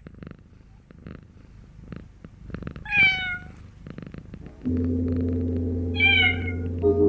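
A cat meowing twice, each a long falling meow, about three and six seconds in, over light scattered clicking. A steady low droning tone comes in a little past the middle.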